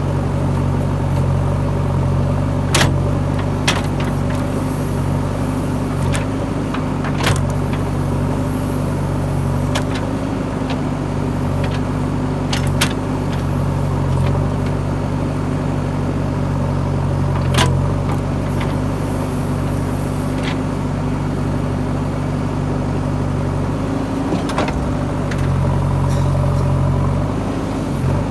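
JCB 3DX backhoe loader's diesel engine running steadily, with a few sharp metallic knocks scattered through.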